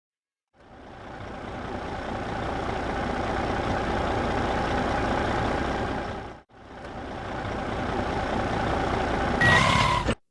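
A motor vehicle engine running steadily, fading in, cutting out briefly about two-thirds of the way through, then fading in again. Near the end a short steady beep or horn tone sounds over it before everything stops abruptly.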